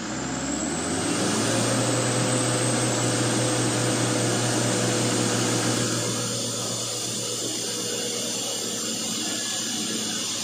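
Truck engine revved hard and held at high revs under load as the truck strains to climb a steep slope, with a high whine over it. The engine note climbs in the first second and eases slightly about six seconds in.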